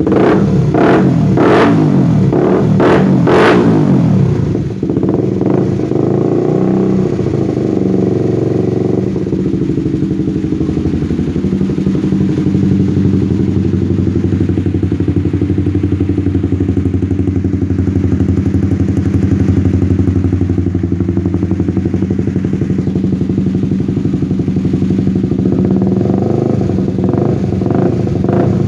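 Honda CB150R's single-cylinder four-stroke engine through a custom Termignoni exhaust, revved sharply in quick blips at the start, then idling steadily, with a few more blips of the throttle near the end.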